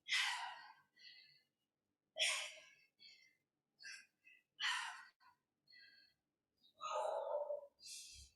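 A woman's hard breathing from the exertion of squatting with heavy weights: short, forceful exhales about every two seconds, with a louder voiced gasp near the end.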